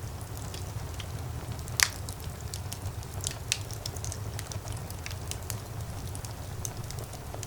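Fireplace fire crackling, with scattered sharp pops and one loud pop about two seconds in, over a steady low rumble of the flames.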